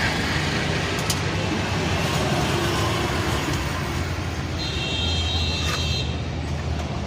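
A motor vehicle engine running with steady road-traffic rumble, with a brief high-pitched tone about two-thirds of the way through.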